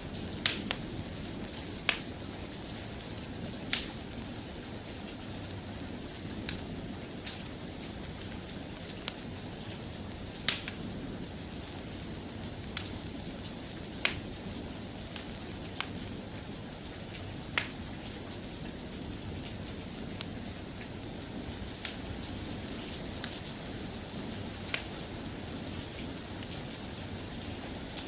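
Steady rain, with sharp clicks scattered irregularly every second or two.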